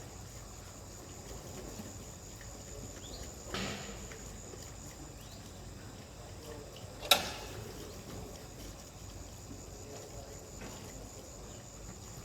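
A steady high-pitched hum over faint hiss, broken twice by a brief sharp sound: once about a third of the way in, and once, much louder and shorter, near the middle.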